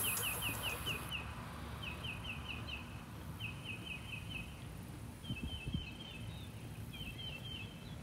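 A songbird singing runs of quick, high, repeated chirps, each run of about half a dozen notes lasting under a second, with short pauses between runs. A faint low outdoor background noise lies under it.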